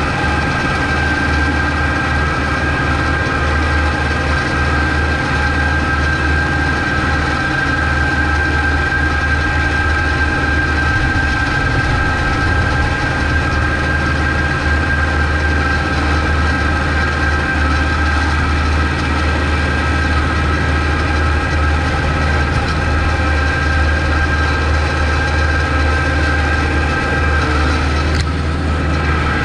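Kubota MX5200 tractor's diesel engine running steadily, a constant low hum under a steady high whine, with a brief change in the sound near the end.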